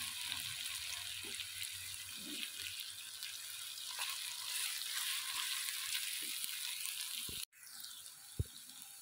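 Chopped onion and ground ginger-garlic-green-onion paste sizzling in hot oil in a karahi, with a wooden spatula stirring and scraping the pan. The sizzle cuts out for an instant about seven and a half seconds in and comes back quieter, and a sharp knock sounds near the end.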